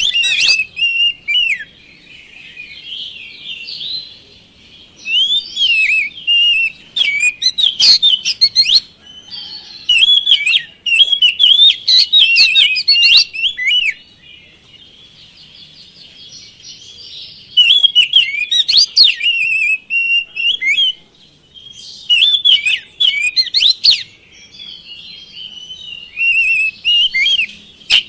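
Oriental magpie-robin (kacer) singing: loud bouts of rapid whistled and chattering notes, each a few seconds long, alternating with softer, quieter warbling in between.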